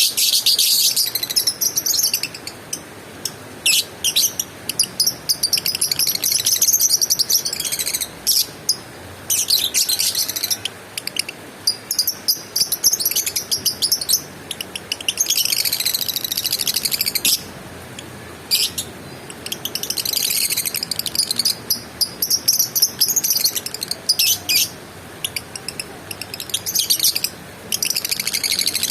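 Lovebird chattering in shrill, rapid trills that come in bouts of one to two seconds, with short pauses between them.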